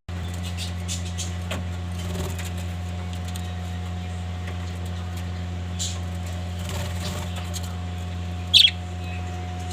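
Budgerigars giving short, scattered chirps over a steady low hum, with one loud chirp dropping in pitch near the end.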